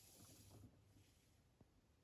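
Near silence while a top-loading washing machine's drum motor rests between turns. A faint low hum dies away in the first moment, and there is one faint tick.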